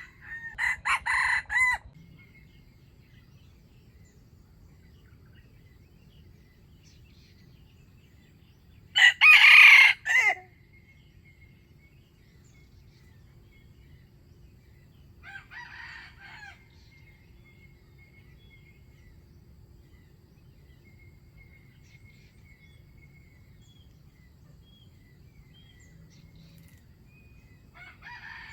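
Wild junglefowl roosters crowing, four crows in all: a choppy one at the start, the loudest about nine seconds in, and two fainter ones later.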